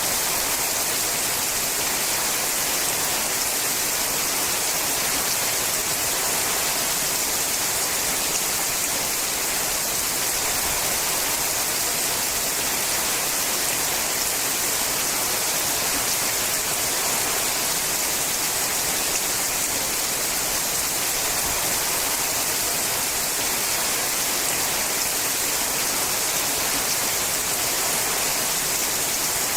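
Steady rain falling on a sheet-metal roof, a dense even hiss with no single drops standing out.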